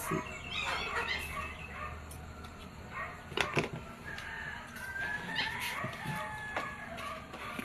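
A rooster crowing, one long drawn-out call about five seconds in, with a few sharp knocks about three and a half seconds in.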